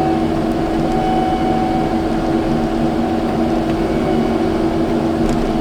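Kubota skid steer's diesel engine running steadily with an even, constant drone while the machine works fill material.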